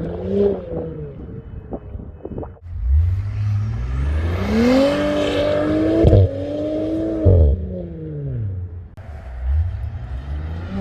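2018 Audi S5's turbocharged V6 through a Milltek exhaust, revved hard in repeated waves: revs climb, hold, then fall away. A few sharp pops as the revs drop after the first wave, then a longer pull that falls off about three quarters of the way through, and the revs start climbing again near the end.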